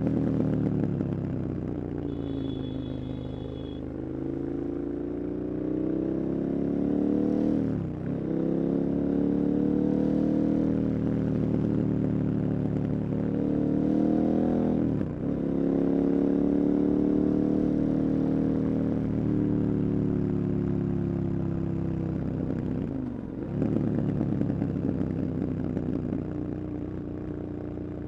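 KTM 1290 Super Adventure's big V-twin engine under hard riding: the note falls off at first, then climbs through the revs with quick upshifts about 8, 15 and 23 seconds in, and settles lower near the end. A brief high tone sounds a few seconds in.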